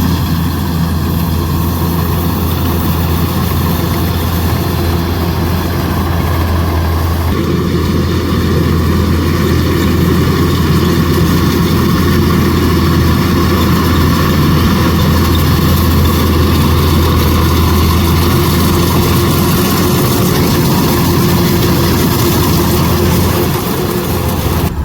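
Kubota DC105X combine harvester's diesel engine running steadily as it harvests rice. About seven seconds in, the sound shifts and grows slightly louder.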